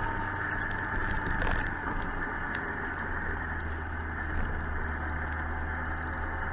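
Suzuki GSX-R 1000 motorcycle under way: a steady engine hum under even wind and road noise, with scattered light ticks.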